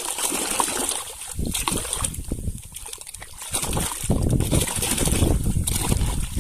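Water splashing and sloshing as a mud-covered toy vehicle is washed by hand, with a quieter lull partway through.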